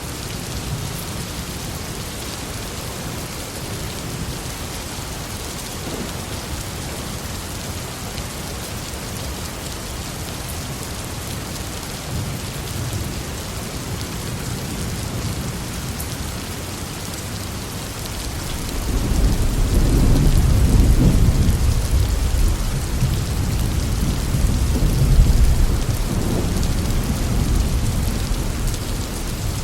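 Steady heavy rain hissing down, with a long low roll of thunder that builds about two-thirds of the way through, peaks twice and slowly fades.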